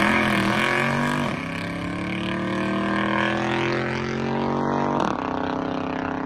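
A car engine accelerating hard, its pitch climbing through the gears with sudden drops at shifts about a second in and again about five seconds in, slowly fading as it pulls away.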